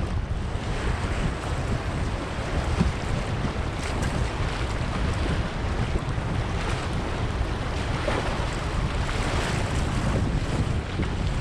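River rapid rushing and splashing around a kayak as it paddles through, with wind buffeting the microphone.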